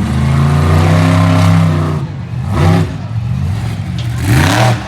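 Monster truck engine running hard. It holds a steady pitch for about two seconds, then drops off and revs back up in repeated surges.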